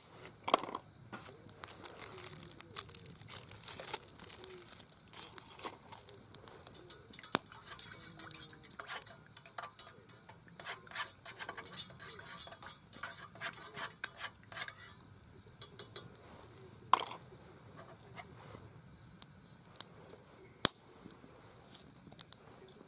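Dishes and utensils clinking and scraping, busy at first and then thinning to scattered clicks after about fifteen seconds.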